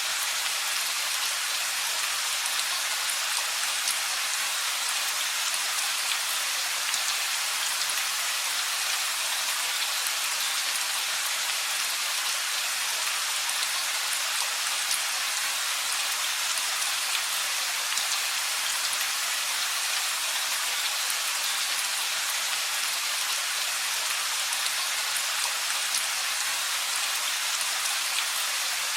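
Steady rain falling, a dense even patter of drops, mostly high in pitch, with many small individual drop ticks.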